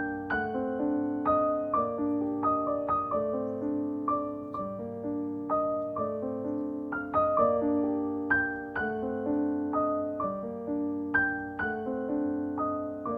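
Background music: a gentle piano melody with a steady, even rhythm of struck notes.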